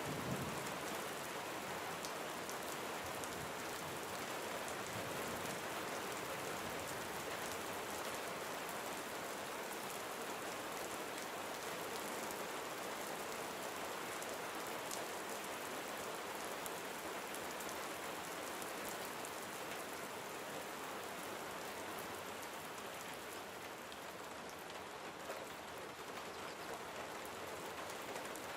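Steady gentle rain falling on a surface, a continuous even hiss with fine pattering drops.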